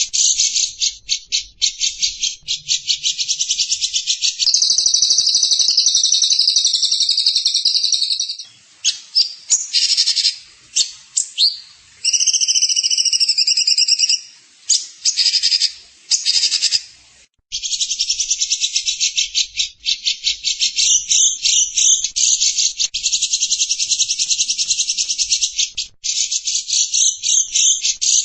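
Songbird master-recording call: rapid, high-pitched buzzing trills and chattering, broken into short choppy bursts between about 9 and 17 seconds in, with a brief pause just after, then fast trills resuming.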